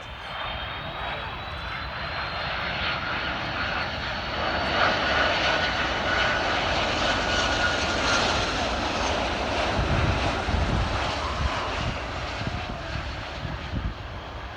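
Jet airliner passing close by: its engine rush swells to a peak about midway and then eases off, with high whining tones from the engines over the noise.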